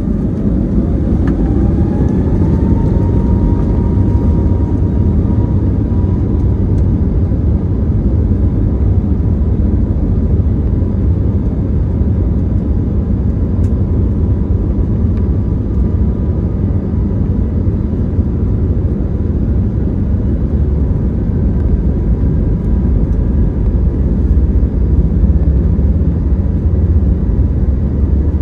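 Airbus A321neo's Pratt & Whitney PW1100G geared turbofan engines spooling up to takeoff power: a loud, steady deep roar with a whine that rises over the first few seconds and then holds.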